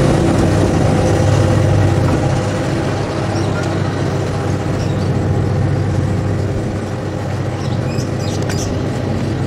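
Passenger train's coaches rolling over the rails with a steady rumble, easing a little after about two seconds as the train moves away.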